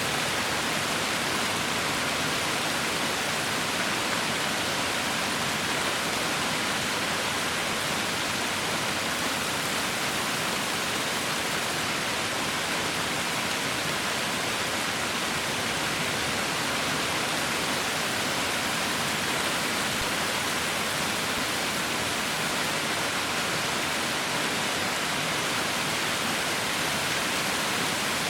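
Heavy rain falling: a steady, unbroken hiss with no separate drops or thunder standing out.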